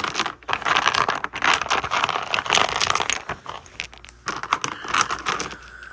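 Crinkling and rustling with many irregular clicks close to the microphone, pausing briefly a little past halfway.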